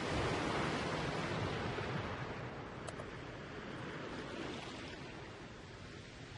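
A steady rushing hiss with no clear pitch, a little louder in the first second.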